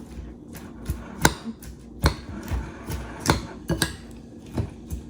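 A utensil knocking against a bowl while a sauce is mixed: about seven sharp, irregular knocks.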